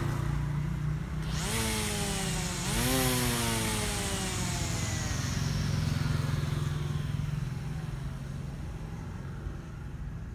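Small cordless electric grass trimmer's motor whirring up to speed twice in quick succession, each time winding up fast and then slowly running down in pitch as it coasts, over a steady low hum.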